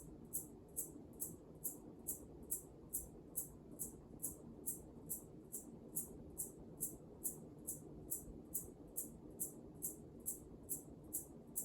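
Emerson K55-motor ceiling fan with heavy plastic blades running on medium: a low hum with a sharp, regular tick about two and a half times a second, about once per turn of the blades.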